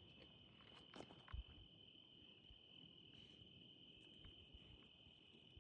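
Faint, steady high trill of crickets at night, with a couple of soft faint knocks about a second in.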